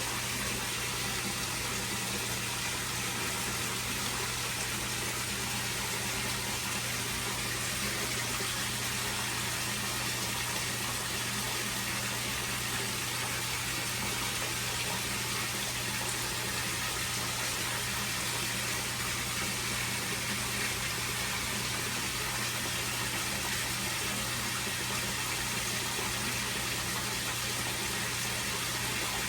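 Koi pond water running steadily through its circulation, a constant rushing with a low steady hum underneath.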